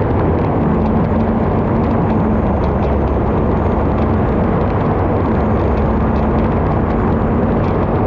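Onboard sound of an unlimited hydroplane's turbine engine running flat out at racing speed. It is a loud, steady roar with a faint steady hum underneath.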